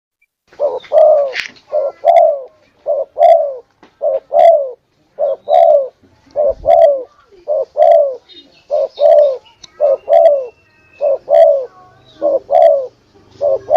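Spotted dove (tekukur) cooing in a steady series of two-note coos, about one pair a second, played as a lure call to draw doves in.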